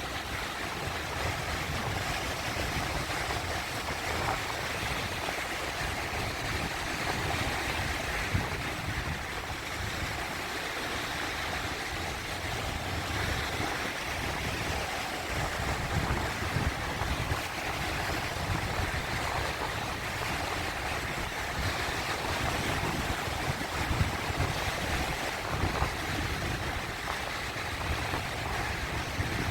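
Sea waves washing and swirling over rocks in a steady, continuous wash of water noise with a low rumble underneath.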